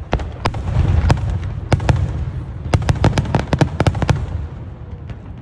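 Aerial fireworks bursting: a continuous low rumble of booms overlaid with many sharp cracks, thickest in a rapid string about three seconds in.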